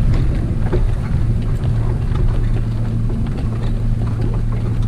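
Wind buffeting the microphone over a steady low hum, with scattered faint clicks.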